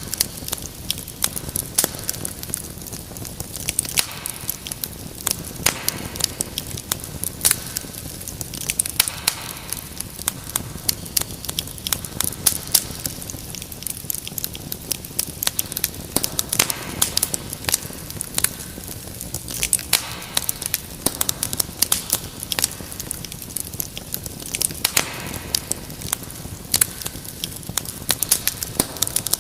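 Wood fire crackling, with many irregular sharp pops and snaps over a steady hiss.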